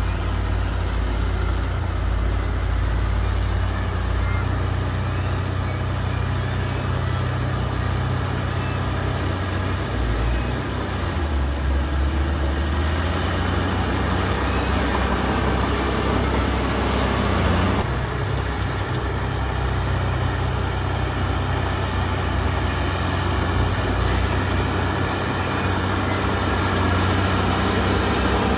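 Diesel engines of earthmoving machinery running steadily, a deep drone under a haze of mechanical noise. The sound shifts abruptly about eighteen seconds in.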